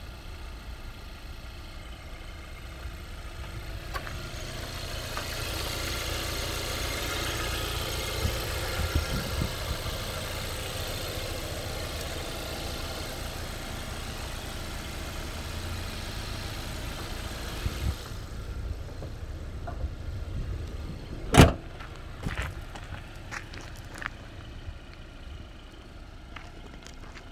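Hyundai Veloster engine idling with a steady hum. About three quarters of the way through, the hood is slammed shut with one loud bang, followed by a few light clicks.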